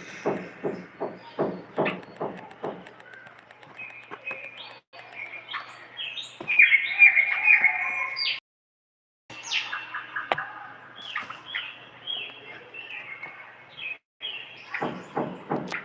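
Common bulbul singing: rough pulsed notes at first, then a string of chirps and short descending whistled phrases. The song cuts out completely twice, briefly, about eight and a half seconds in and again near fourteen seconds.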